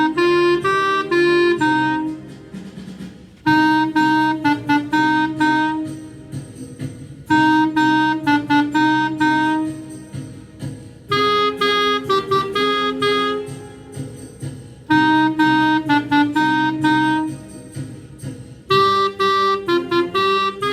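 Clarinet playing a short bluesy phrase of detached notes, repeated about every four seconds with brief breaths between.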